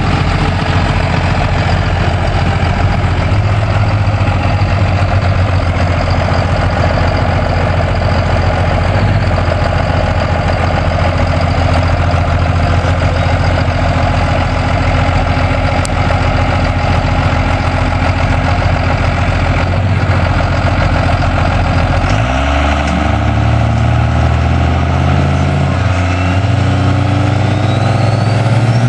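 Loud truck engine running steadily, low and even. About 22 seconds in the note changes and the engine revs up, its pitch climbing with a rising whine near the end.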